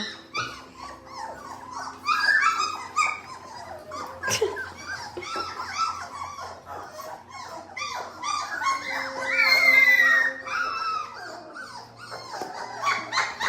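Three-week-old Labrador Retriever puppies whimpering and crying, several small high voices overlapping, with one louder drawn-out cry about nine seconds in.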